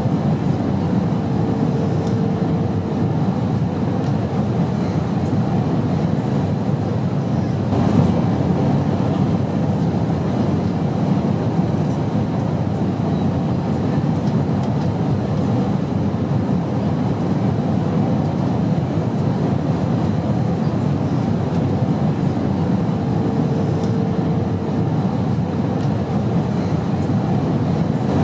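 Steady, low airplane drone from a jet in flight, an even rumble without change. A faint short tone sounds twice, near the start and near the end.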